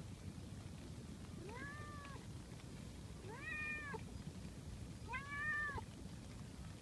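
A cat meowing three times, each call rising and then falling in pitch, about a second and a half apart.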